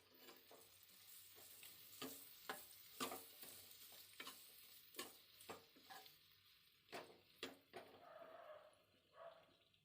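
Faint tapping and scraping of a utensil stirring in a cooking pan, about one tap every half second to second, over a light sizzle.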